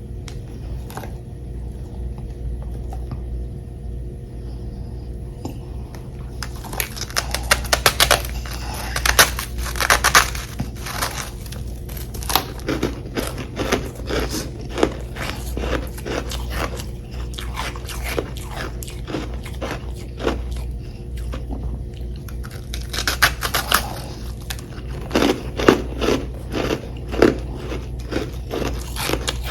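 Crunching and chewing of humidifier-made frost chunks, close to the microphone. After about six quiet seconds with only a low steady hum, a run of rapid crunching bites starts, then thins to scattered chews, and a second run of crunches comes near the end.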